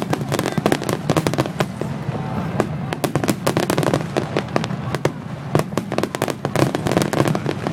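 Fireworks display: a rapid, dense barrage of shells bursting, many sharp bangs and crackles a second without let-up, over a steady low rumble.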